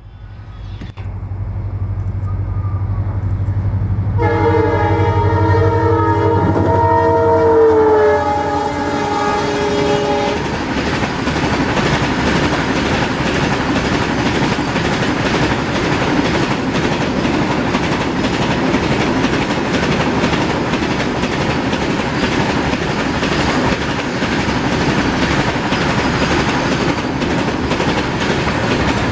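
Train passing: a low steady hum, then the train horn sounds about four seconds in for several seconds, dropping in pitch near its end. After the horn, a steady rumble with a rapid clickety-clack of wheels on the rails.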